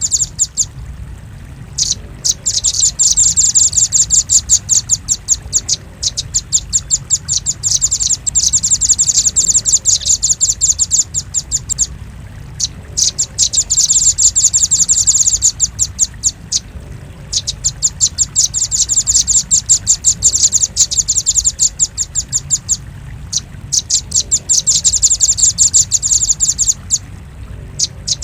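Velvet-fronted nuthatch calling: long runs of sharp, high chips in rapid succession, broken every few seconds by short pauses, over a low steady hum.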